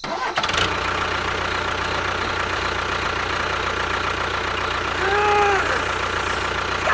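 A steady engine-like running sound starts suddenly and carries on evenly, with a short rising-and-falling tone about five seconds in.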